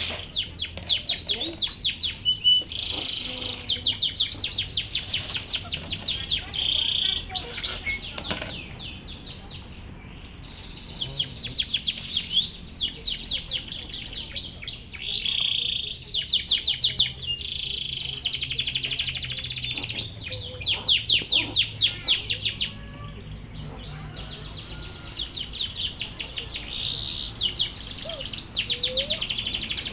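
Canary singing long, high rolling trills of rapidly repeated notes, in phrases that break off briefly twice before starting again.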